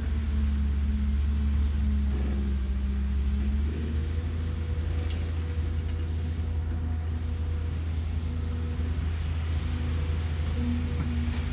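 Caterpillar excavator's diesel engine running steadily, its note shifting once about four seconds in.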